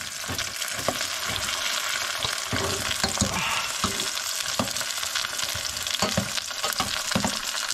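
Sliced mushrooms sizzling in hot oil in a steel saucepan on a gas hob, stirred with a metal spoon that scrapes and clinks against the pan now and then.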